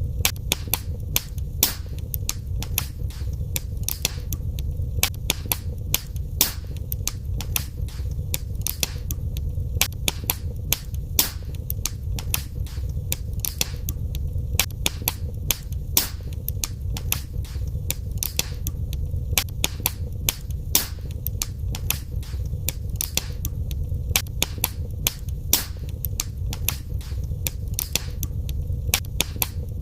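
Wood fire burning in a fireplace, with frequent sharp irregular crackles and pops over a steady low rumble of the flames.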